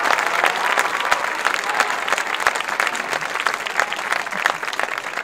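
Crowd applauding in a stadium, with scattered cheers, the clapping slowly dying down near the end.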